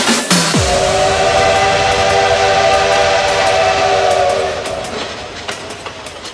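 Steam locomotive whistle sound effect in a dance track's break: a chord of several steady tones over a hiss of steam, held for about four seconds and then fading away. It comes in just after a falling bass sweep about half a second in.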